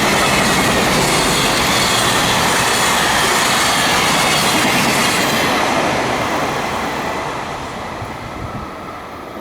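Freight train fully loaded with large containers rolling past at speed, its wagon wheels rumbling and clattering on the rails. The sound fades away steadily from about six seconds in as the end of the train goes by.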